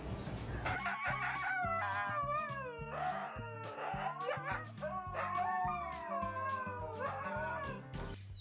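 Dog howling in long, wavering, gliding notes over background music with a steady bass line, the howls beginning about a second in and stopping just before the end.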